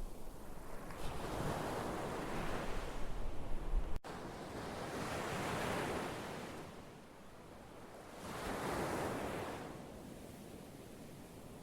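Ocean surf: waves washing in and drawing back in about three swells. There is a brief break about four seconds in, where a low rumble drops out.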